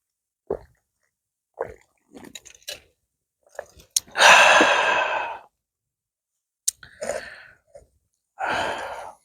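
A person drinking a shot: short mouth and swallowing sounds, then a long, loud satisfied exhale about four seconds in. Two sharp clicks follow, and another breathy sigh comes near the end.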